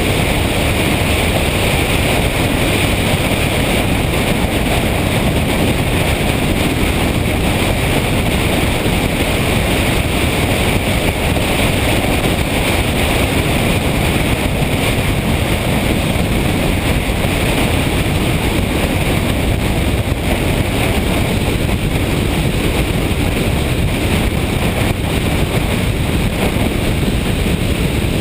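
Steady wind rush over the microphone mixed with the noise of a motorcycle being ridden at a constant pace, with no change throughout.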